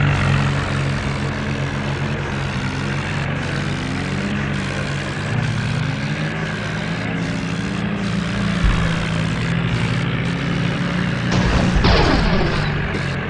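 Tractor engine running steadily with a low, even hum. Near the end a brief falling sweep passes over it.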